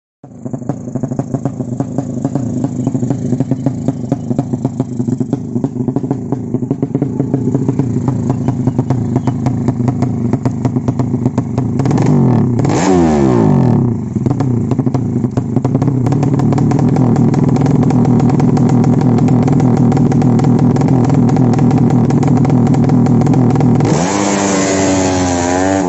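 Motorcycle racing engine running with an uneven, pulsing idle, blipped up and back down about halfway through, then held at a steadier, higher speed and revved up again near the end.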